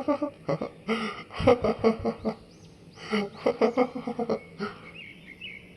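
A cartoon character laughing loudly in three runs of short, repeated 'ha-ha' syllables, dying away near the end.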